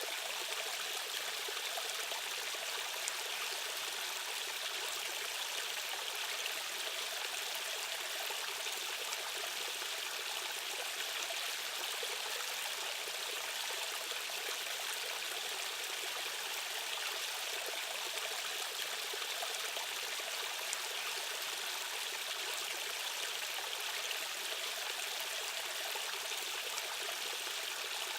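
Fast-flowing stream water rushing steadily over rocks, a constant even hiss with little bass and no single splashes standing out.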